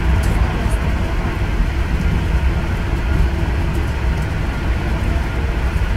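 Running noise of a passenger train at speed, heard from inside the carriage: a steady low rumble of wheels on the rails.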